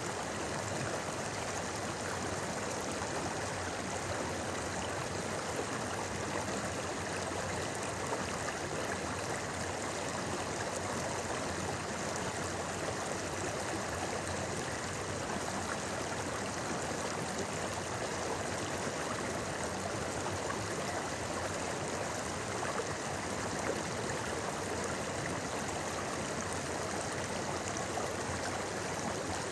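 Clear mountain stream flowing and babbling over rocks, a steady rush of water with light gurgling.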